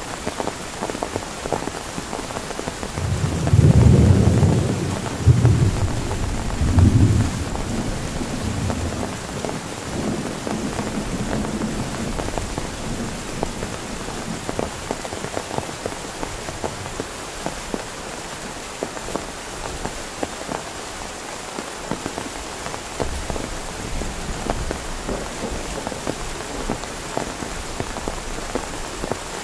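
Heavy rain falling steadily, with many small drop ticks. About three seconds in, a low rumble of thunder swells, peaks a few times and dies away by about eight seconds.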